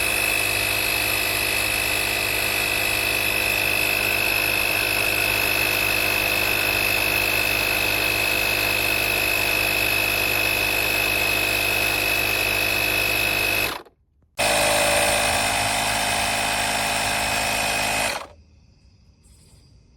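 The small air compressor built into a Joltekon 5000A jump starter pumps up a tyre, running steadily with a high whine and a little loud. It cuts out briefly about fourteen seconds in, runs again, then stops a couple of seconds before the end.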